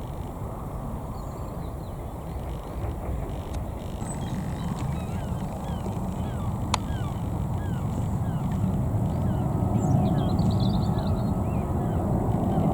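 Low jet rumble of an Airbus A319-111's CFM56 engines, growing steadily louder as the airliner approaches. Small birds chirp in short falling calls throughout.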